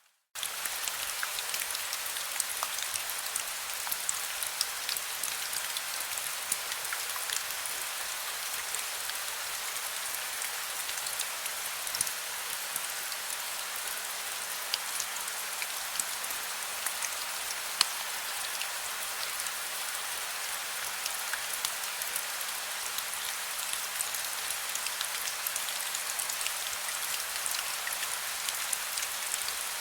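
Heavy rain falling steadily: a dense hiss full of sharp little drop impacts. It comes in abruptly after a brief moment of silence at the very start.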